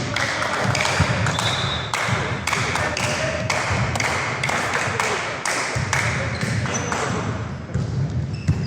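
Volleyball repeatedly struck and bouncing on a sports hall floor: a quick, irregular series of sharp thuds, one or two a second, echoing in the hall.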